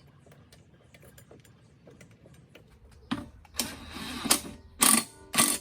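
Light clicks of handling, then four short bursts of a power driver running on the mower's blade bolt, the last two the loudest.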